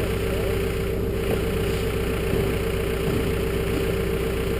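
An engine idling steadily, with a constant mid-pitched hum over its low drone and no change in pace.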